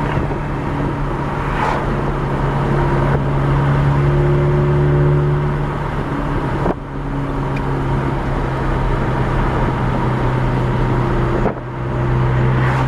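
2010 MK6 Volkswagen GTI's turbocharged 2.0-litre four-cylinder, straight-piped through a 3-inch APR downpipe with no muffler, heard from inside the cabin with the windows down as the car drives along with a loud, steady low drone. The sound dips sharply twice, about seven and eleven and a half seconds in.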